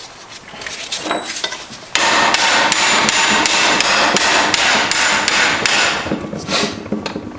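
Rapid, loud metal hammering on a Subaru six-speed transmission's cast-aluminum case as it is broken up. A few light knocks come first, then about two seconds in a continuous rattling run of blows with a metallic ring starts, lasting about four seconds before it tails off.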